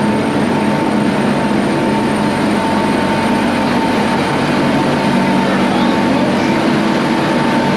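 Ship's engine-room machinery running with a loud, steady drone and a constant whine that holds one pitch.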